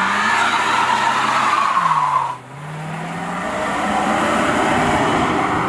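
Performance car doing a wheelspin: engine revving hard with tyres squealing. About two seconds in the sound drops away briefly, then the engine and tyre noise build up again.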